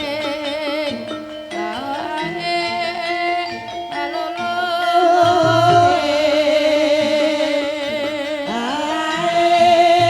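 Javanese ebeg dance music: a singer's long wavering notes over the ensemble's sustained pitched instruments, with low drum strokes, strongest about halfway through and near the end.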